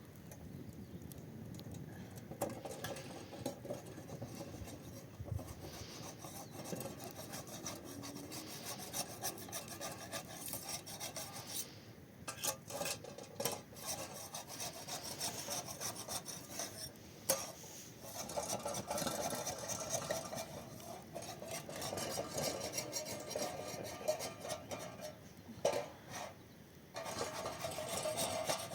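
Continuous rubbing and scraping with many small clicks, broken by a couple of short pauses.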